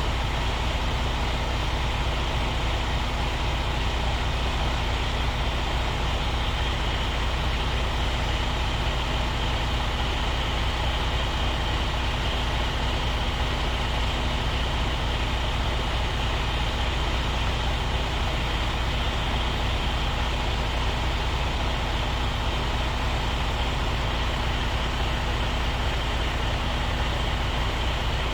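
Truck's diesel engine idling steadily, a low even drone that does not rise or fall.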